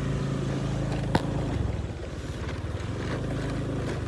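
Vehicle engine running steadily at low revs, with one sharp knock a little over a second in.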